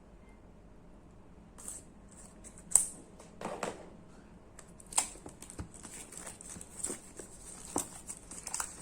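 Packaging being handled as a boxed oracle card deck is unwrapped and opened: a string of small clicks, taps and rustles, sharpest about three seconds in, after a quiet first second or so.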